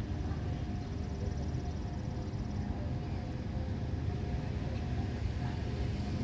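Steady low rumble of an engine running, with a faint even hum over it.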